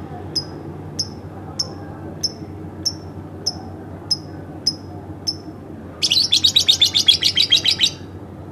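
Pet lovebird calling: a regular series of short, sharp chirps about every 0.6 seconds, nine in all, then a loud, rapid chattering trill lasting about two seconds near the end.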